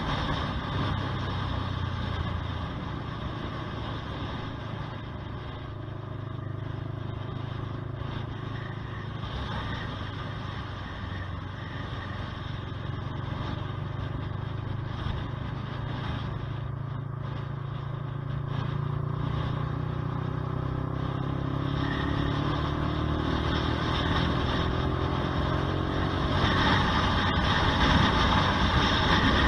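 Honda CBR125R's small single-cylinder four-stroke engine running under way. From about eighteen seconds in, its pitch climbs slowly and steadily as it pulls, and near the end the sound grows louder with more rushing noise.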